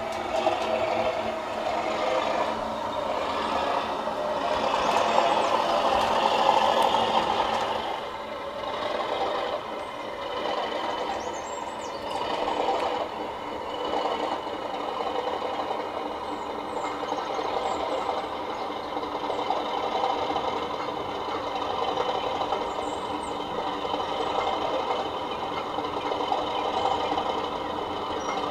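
DCC sound decoder in a model Class 37 diesel locomotive, playing a diesel engine running through the model's small onboard speaker. It gets louder for a few seconds near the start, as if the engine is powering up, then runs steadily.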